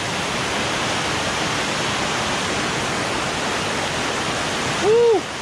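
Waterfall water rushing with a steady, even roar. Near the end, one short loud tone rises and falls in pitch.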